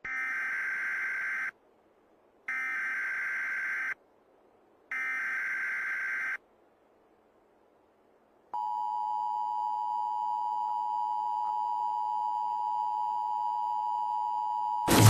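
Emergency Alert System broadcast tones. Three short bursts of the SAME data header sound about a second apart, then the steady two-tone attention signal, which stops just as a loud sound starts near the end.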